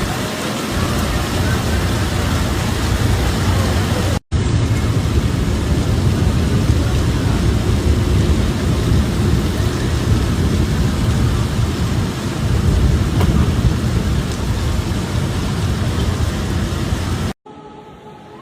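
Heavy rain falling, a loud steady hiss with a deep rumble under it. It breaks off abruptly about four seconds in, picks straight up again, and near the end cuts to something much quieter.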